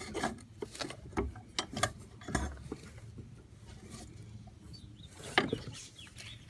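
Scattered clicks, clanks and rattles of hands working a lawn mower's drive belt around its pulleys, with a louder knock about five seconds in.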